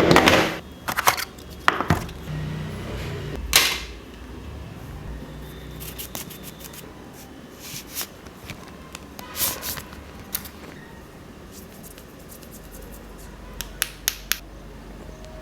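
Handling noises from unboxing a smartphone: a loud rustle at the start, then scattered clicks, taps and scrapes of the phone and its packaging, with a few quick clicks near the end.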